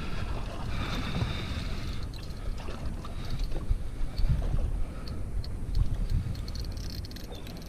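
Water sloshing against a small boat's hull, with wind rumbling on the microphone and a few faint scattered ticks.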